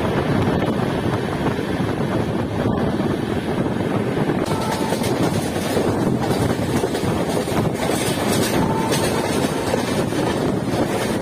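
Passenger train running at speed, heard from beside the coach: a steady rumble of wheels on the rails with wind buffeting the microphone. It turns hissier about four and a half seconds in.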